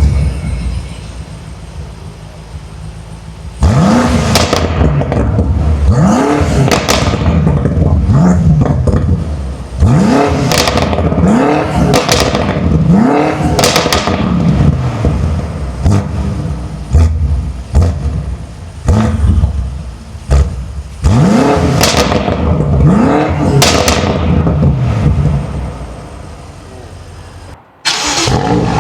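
BMW twin-turbo V8 engine idling just after a start, then blipped about a dozen times, the revs rising sharply and falling back to idle, sometimes two in quick succession. Near the end the sound cuts out briefly and an engine fires up again loudly.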